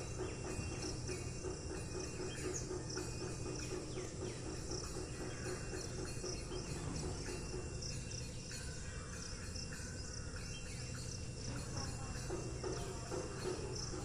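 Steady insect chirring, continuous and unchanging.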